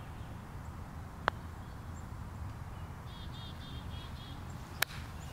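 A bird calling a quick series of about six short chirps, over a steady low rumble, with two sharp clicks, one about a second in and one near the end.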